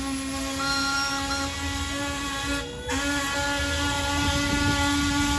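Steam whistle on a traction engine blowing a long, steady note, cut off for a moment about three seconds in and then blown again. Fainter higher whistle tones come and go alongside it.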